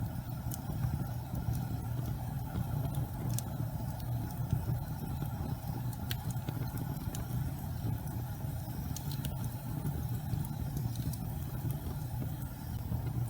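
Gas fireplace flames burning with a steady low rumble, with scattered sharp crackles every second or so.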